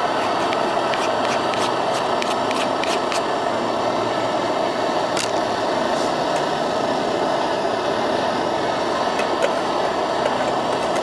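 An MSR DragonFly liquid-fuel camp stove burning with a steady, loud rushing hiss. Scattered sharp crackles fall over it in the first few seconds, and there is one more about five seconds in.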